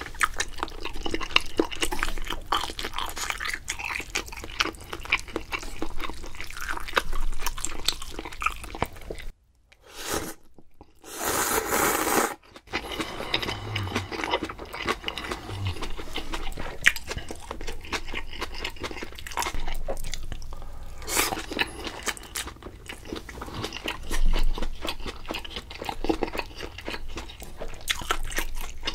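Close-miked chewing and biting of sausage stew food, starting with the sausage: irregular wet mouth clicks and chews, with one short louder rush of noise about eleven seconds in.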